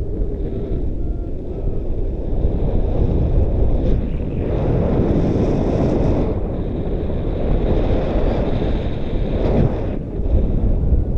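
Strong wind buffeting the microphone, a loud low rumble that surges and eases in gusts.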